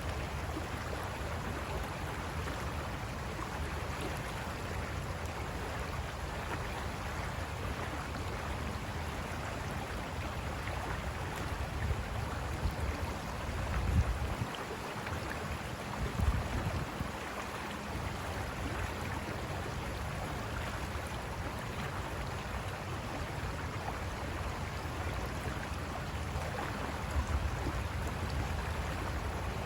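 River water rushing and splashing over rocks, a steady hiss. A few brief low thumps come through near the middle and again near the end.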